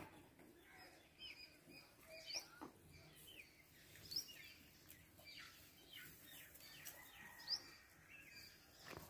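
Faint outdoor ambience of small birds chirping: many short, quick chirps scattered throughout, with a couple of soft clicks.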